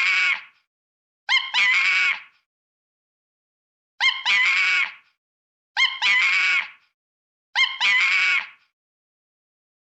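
A high-pitched animal call, a short note and then a longer one, repeated five times with silence between. The repeats are identical, which points to one recording played in a loop.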